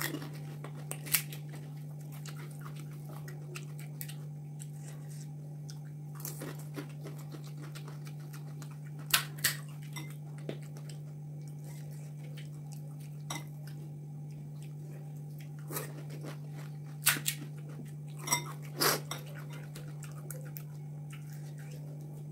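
Crisp panipuri shells cracking and crunching as they are broken open and chewed, with a dozen or so short sharp crackles spread out with long gaps between them. A steady low hum lies underneath.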